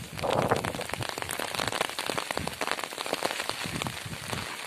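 Rain pattering steadily, a dense run of separate drop hits.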